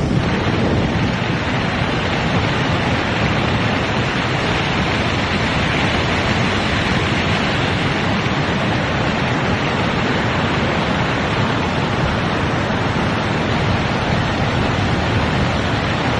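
Steady, loud rushing noise of a tropical storm: wind and water, unbroken, with no distinct knocks or tones.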